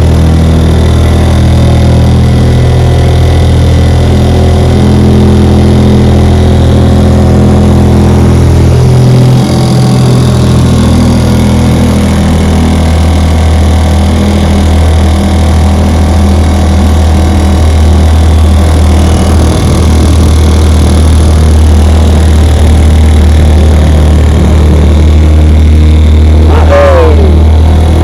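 1960 West Bend 2 hp model 2901 two-stroke outboard motor running at open throttle, driving a small boat along with a steady drone. The drone dips briefly about nine seconds in, then steadies again.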